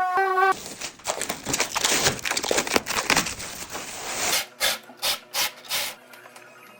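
Rough scraping or rasping on a hard surface, continuous for about four seconds, then about five short separate strokes.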